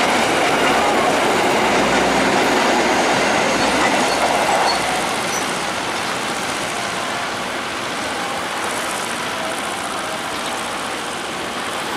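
Passenger coaches of the Argo Lawu train rolling past on curved track: steady wheel-on-rail rumble with a faint thin squeal at times in the first few seconds, getting quieter about five seconds in as the end of the train approaches.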